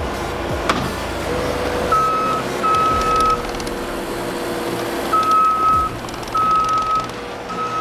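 Compact track loader's backup alarm beeping in long pulses over its running engine. The alarm stops for about two seconds midway, then starts again.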